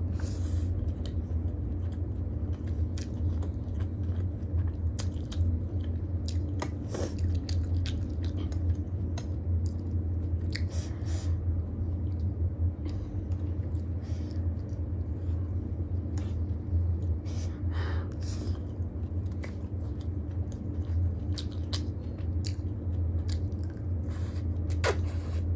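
Close-miked chewing of a mouthful of chow mein noodles, with many short wet clicks and smacks scattered irregularly. A steady low hum runs underneath.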